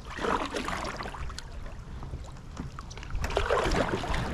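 Water splashing and sloshing around a kayak on a river, with scattered small knocks, louder near the start and again near the end.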